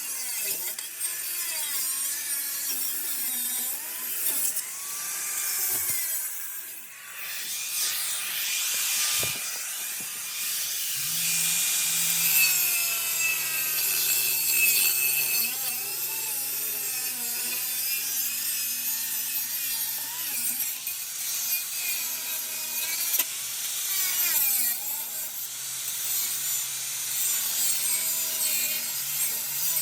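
Angle grinder with a cutoff disc cutting through a steel exhaust pipe: a steady, high-pitched grinding hiss with a wavering whine, easing off briefly about seven seconds in.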